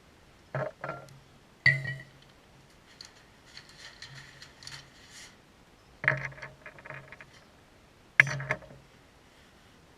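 Metal hand tools clinking and knocking: about five sharp strikes with a short ring, spread over several seconds, with faint scraping and rustling between them.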